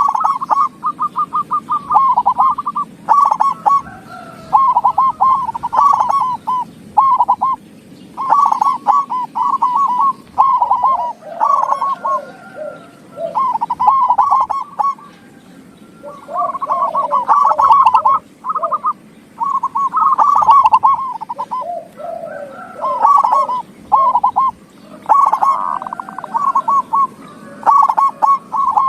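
Zebra doves (perkutut) cooing: one rolling, pulsed coo phrase after another with short gaps, and a lower-pitched second bird overlapping at times.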